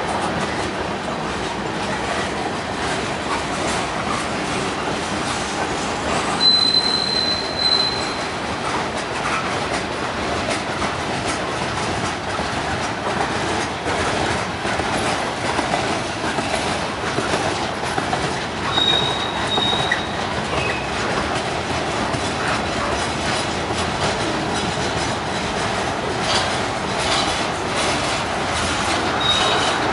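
Freight train cars rolling past: a steady rumble and clatter of steel wheels on the rails, with brief high squeals about six seconds in, again near twenty seconds and near the end.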